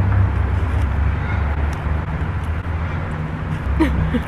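Steady low engine rumble of a nearby motor vehicle, with a brief gliding squeak near the end.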